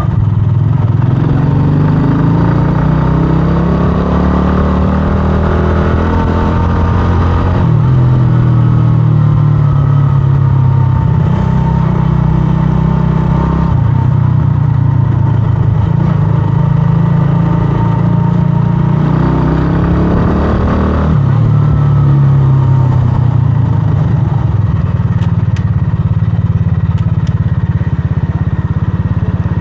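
125cc scrambler motorcycle engine running on the move. The revs climb steadily for several seconds, then fall away sharply about a quarter of the way in. They climb and fall sharply again about two-thirds of the way through.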